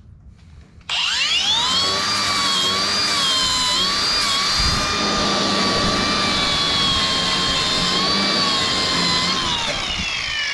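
Hand-held electric power tool cleaning a fresh weld on steel: the motor spins up about a second in to a steady high whine, wavering slightly as it bears on the metal, then winds down near the end.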